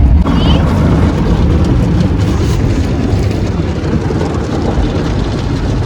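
Automatic car wash running, heard from inside the car: a loud, steady rushing noise with a deep rumble.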